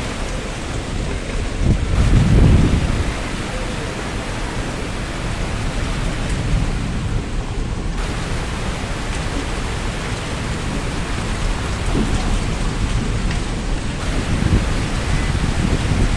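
Heavy rain pouring steadily, with gusts of strong wind buffeting the microphone as low rumbles, the strongest about two seconds in and again near the end.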